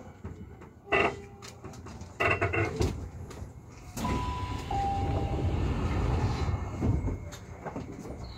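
Tobu Skytree Line commuter train stopping at a station: the falling motor whine dies away, then two loud thuds of the sliding doors, a two-note chime about halfway through, and a few seconds of steady rushing noise.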